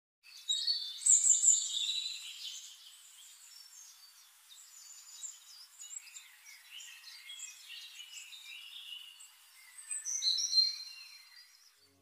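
Several birds chirping and calling at once, a busy mix of short, high notes and brief whistles, loudest in the first couple of seconds and again briefly about ten seconds in.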